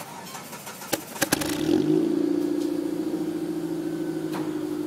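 Mitsubishi Airtrek non-turbo four-cylinder engine being started: a short crank with a few clicks, then it catches about a second and a half in and settles into a steady idle, heard at the exhaust.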